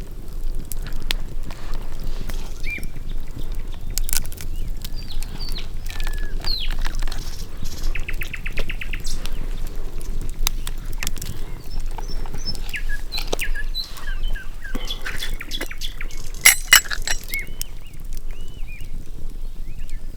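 Forest birds chirping and calling in short rising and falling notes, with one fast trill of about ten notes around eight seconds in. Scattered sharp clicks and knocks sound throughout, the loudest a quick cluster about sixteen seconds in, over a steady low rumble.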